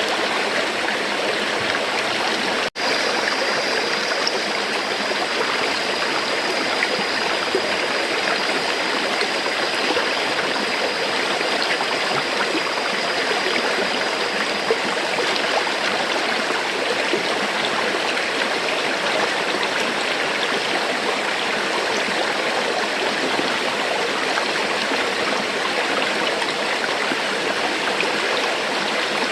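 River water flowing steadily: an even, dense rush of running water with no rhythm or pauses. There is a split-second dropout about three seconds in.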